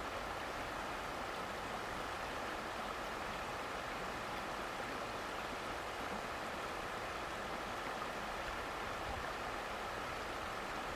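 Steady, even sound of running water in a stream.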